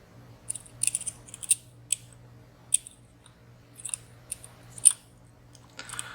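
Lock picks working the sliders and pins of a WSW W10 padlock: about ten small, sharp metallic clicks at uneven intervals, the loudest a little before the five-second mark, over a faint steady hum.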